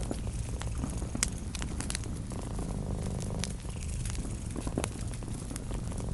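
Cat purring steadily, low and continuous, with a wood fire crackling over it in scattered sharp pops.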